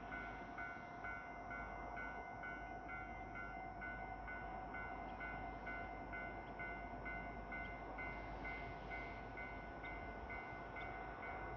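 Railway level-crossing warning bell ringing in an even electronic ding-ding, about two strikes a second, signalling that a train is approaching.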